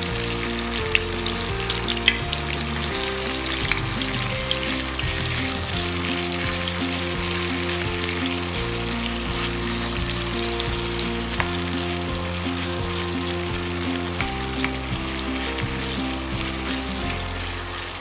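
Sliced sausages sizzling and crackling in a hot frying pan as they are stirred, with a couple of sharp knocks about one and two seconds in. Background music with slow-changing low notes plays underneath.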